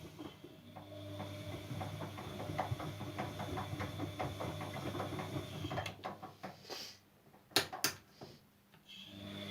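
Siemens Siwamat C10 washing machine running, its motor humming with irregular clicking as the drum turns. The motor stops about six seconds in, a couple of sharp clicks follow, and it starts up again near the end: the drum pausing between turns in the wash rhythm.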